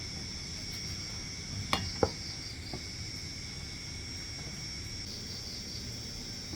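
Steady chorus of crickets, a constant high-pitched trill, with two or three short sharp clinks, like utensils against bowls, about two seconds in.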